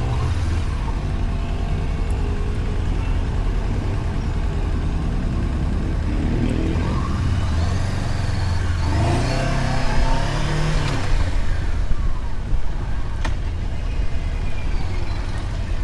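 Motorcycle under way, engine running steadily with road and wind noise; its engine note rises and falls between about six and eleven seconds in.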